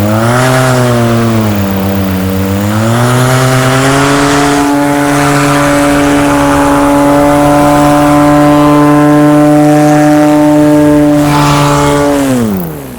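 Two-stroke paramotor engine and propeller running in flight. Its pitch dips, then climbs to a steady high throttle about three seconds in, and it is throttled down sharply near the end.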